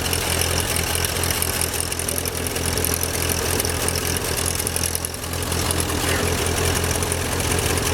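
John Deere tractor engine running steadily while the tractor drives, pulling a three-point back blade, with a brief easing about five seconds in.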